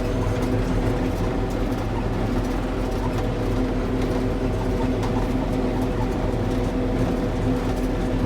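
Engine of a hay-cutting farm machine running steadily under load while mowing, heard from inside the cab as an even hum with no change in pitch.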